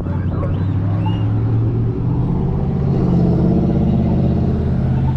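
A car engine running close by, growing louder and pulling away with its pitch rising about three seconds in.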